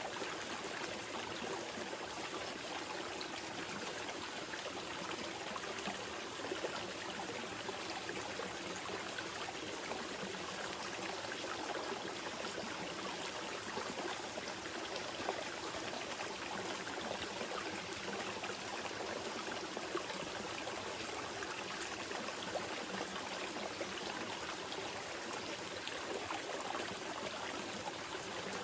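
Small mountain river flowing steadily over rocks, an even rushing wash of water with fine trickling and splashing detail.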